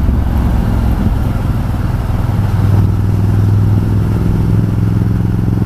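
Ducati Multistrada 1200 S's L-twin engine running steadily under way, its note growing stronger about halfway through, over wind and road noise.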